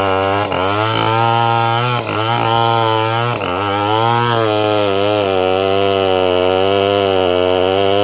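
Engine of a homemade bandsaw running under load while cutting trembesi wood. Its pitch dips sharply and recovers three times in the first few seconds as the blade loads it, then runs steadily.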